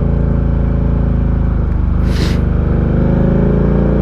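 Ducati Diavel 1260's V-twin engine running steadily while under way, with a brief hiss about two seconds in.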